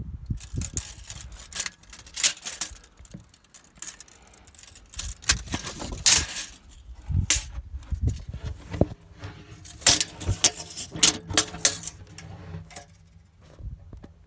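Irregular clattering from hand work on wood: sharp clicks and knocks mixed with short scraping strokes, coming in clusters, busiest around the middle and again just past two-thirds of the way through, then thinning out near the end.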